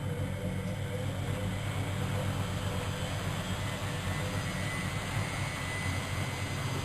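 Miele Novotronic W120 washing machine running: a steady rushing noise over a low motor hum, with a faint high whine coming in about four seconds in.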